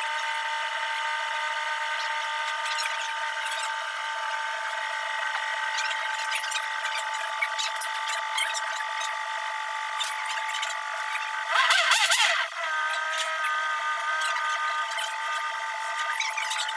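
A small machine running with a steady whine of several held tones, with a short, louder burst of hiss about twelve seconds in.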